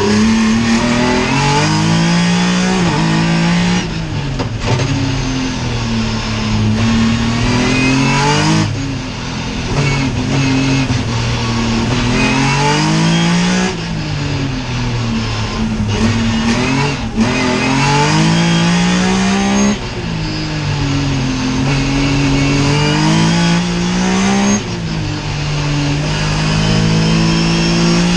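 Racing car engine under hard throttle through a slalom course, the revs climbing and then dropping off sharply about every four to five seconds as the car lifts and accelerates again.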